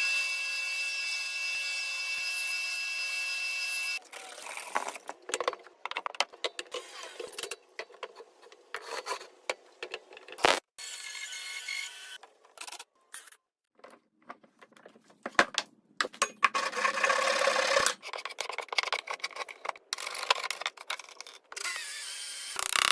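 Wood being worked by hand in a string of short edited clips: sawing, scraping and rubbing strokes on log wood, with a few sharp knocks. The first four seconds are instead a steady, even whine that cuts off abruptly.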